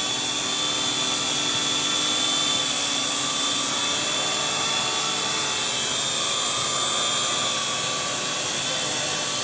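Small quadcopter camera drone's propellers buzzing with a steady, multi-pitched whine as it hovers close by, coming down to land; it grows a little louder over the first couple of seconds.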